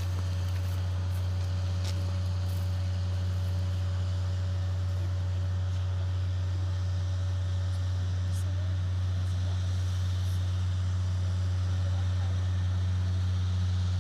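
Steady low drone of a running engine, with a faint thin whine over it that fades out about halfway through.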